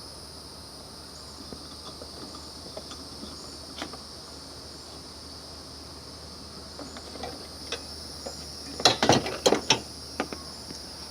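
Steady high-pitched insect trill, like crickets, runs underneath. Scattered light clicks, then a cluster of sharp clicks and knocks about nine seconds in, from hands working the AC charging hose fittings.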